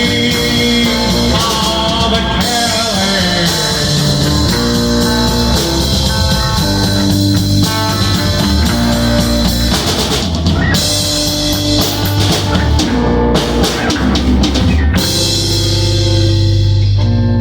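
A rock band playing loudly, with a drum kit beating under sustained chords. About fifteen seconds in the drum hits stop and a low chord rings on.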